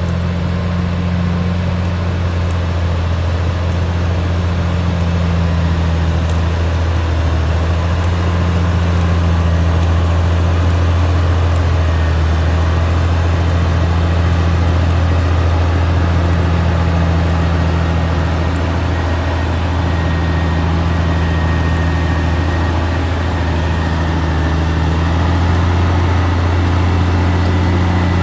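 Caterpillar D6R XL bulldozer's diesel engine running steadily at a near-constant pitch, with a deep hum under a broad mechanical din.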